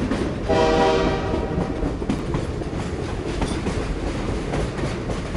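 Train running with a steady rumble and clatter of wheels on the rails, sounding one long blast about half a second in.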